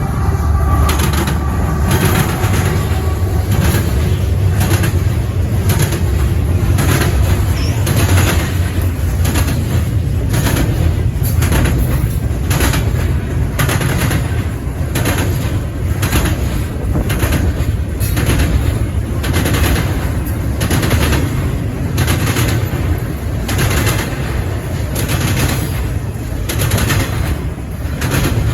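Freight cars of a CN intermodal train rolling past close by: a steady low rumble with sharp wheel clacks about once a second.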